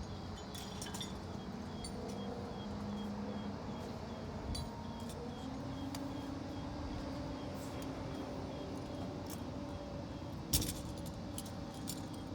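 A steady mechanical hum with scattered light metallic clinks and one sharp knock about ten and a half seconds in.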